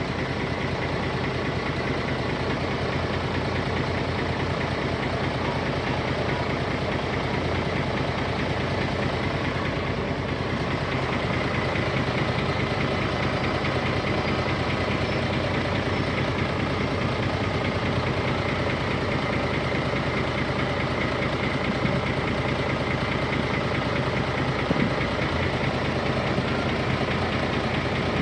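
A heavy diesel engine running steadily at low speed, even and unchanging throughout.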